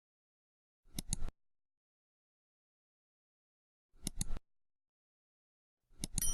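Editing sound effects over dead silence: three brief pairs of quick clicks, about a second, four seconds and six seconds in. The last pair sets off a bell-like ding that begins ringing at the very end.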